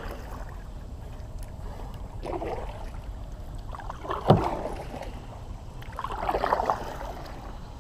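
Kayak paddle strokes: three soft swishes of water off the blade, about every couple of seconds, with a sharp knock a little past four seconds in, over a steady low rumble.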